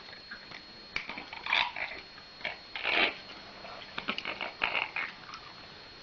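A parrot and a house cat scuffling: a string of short, harsh animal outbursts and scrabbling noises, loudest about a second and a half in and around three seconds in.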